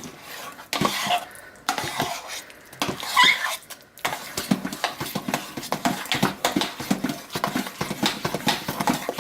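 A utensil stirring thick, partly gelled hot-process soap in a crock pot, scraping and knocking against the pot's sides in quick, irregular strokes.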